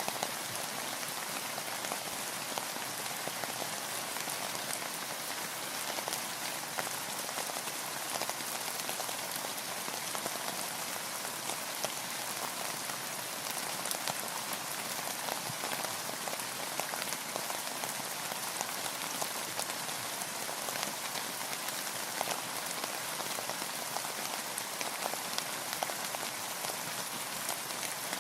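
Steady rain, a dense even hiss with many individual drops ticking sharply against a boat's surface.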